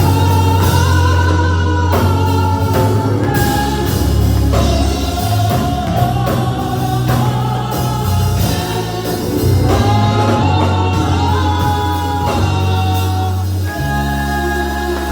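Gospel choir singing with instrumental accompaniment, sung voices gliding over sustained bass notes.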